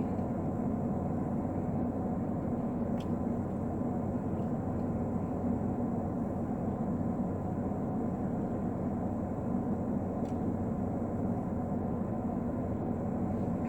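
Steady hum and rushing noise inside a parked car, with its engine or ventilation running, and a couple of faint clicks.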